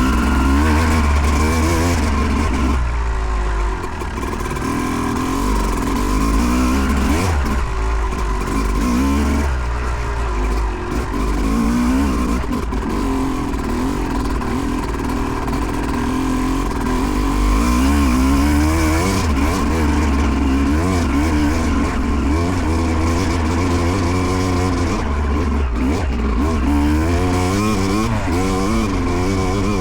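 Single-cylinder two-stroke engine of a 2008 Yamaha YZ250 dirt bike being ridden hard, the revs climbing and dropping again and again as the throttle is opened and shut.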